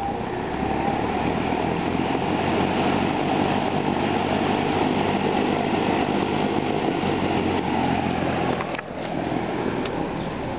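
1969 Lakewood Country Aire P-21 box fan running: a steady rush of air over a low motor hum. A click about nine seconds in, after which it runs on a little quieter.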